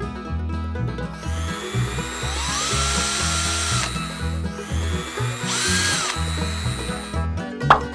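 A small electric motor whirs up twice, each time rising in pitch and then holding steady, over background music with a steady beat; a few sharp clicks come near the end.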